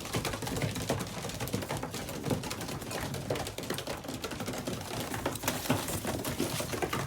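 Racing pigeons pecking peanuts, a rapid, irregular clatter of beak taps and clicks.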